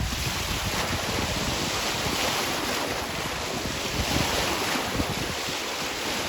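Wind rushing over the microphone: a steady noise with irregular low buffeting gusts.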